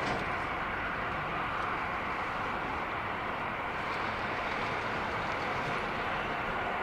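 Jet engine noise from an Airbus A340-300's four CFM56 turbofans during its takeoff: a steady rushing noise that holds level with no sudden changes.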